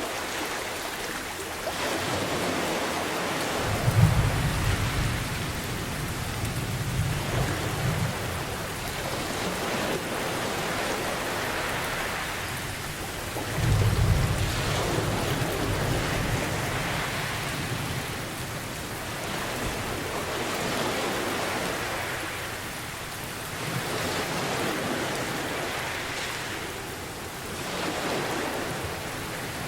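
Steady rain with ocean waves swelling and washing in every few seconds, and two low rolls of thunder, one about four seconds in and another about fourteen seconds in, each rumbling for several seconds.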